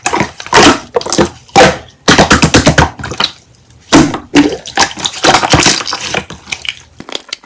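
Slime being squished and pressed by hand, with wet crackling and popping in irregular bursts and a short lull about three seconds in.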